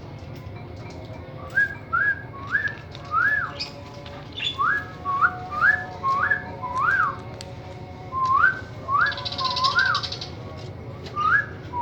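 A series of short whistles, each sliding up, held briefly and dropping off, coming in quick runs of two to five with pauses between. A brief harsh buzzy sound comes about nine seconds in.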